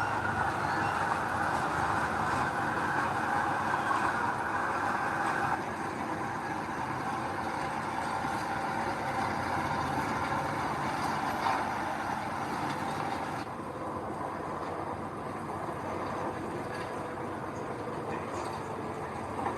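Heavy earthmoving machinery running steadily, a bulldozer's diesel engine and tracks working, with the sound changing suddenly twice where the footage is cut.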